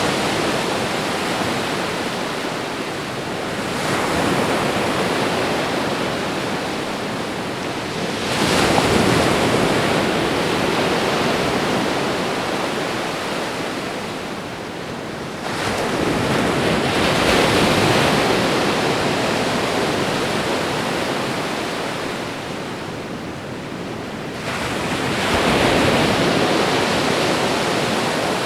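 Ocean waves breaking and washing up the shore, a continuous surf hiss that swells with a new wave about every six to nine seconds, four times, each surge fading slowly before the next.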